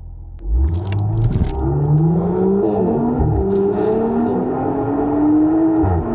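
Audi S5 Sportback's V6 with an aftermarket downpipe and RS exhaust, accelerating hard from about half a second in. The pitch climbs, drops at a gear change about two and a half seconds in, then climbs again until another drop near the end, with a few sharp exhaust cracks along the way.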